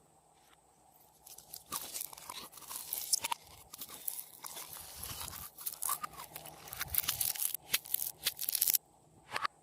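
Slime being worked by hand, making dense, irregular crunchy crackles and small clicks. The crackling starts about a second and a half in, breaks off briefly near the end, and comes back with one more burst.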